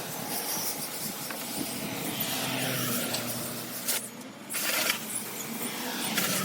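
Water spraying hard from a hose nozzle. It cuts out for about half a second roughly four seconds in, then starts again.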